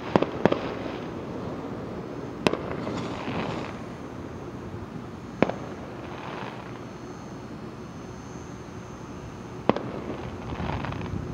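Fireworks display: about five sharp bangs a few seconds apart, the first two close together at the start, with quieter, drawn-out noise between them.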